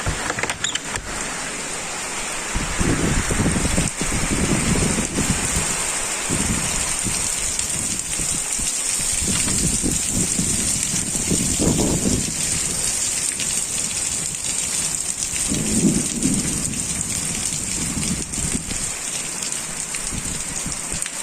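Heavy rain pouring down steadily while strong wind gusts in low, rushing surges that come and go every second or two, starting a few seconds in.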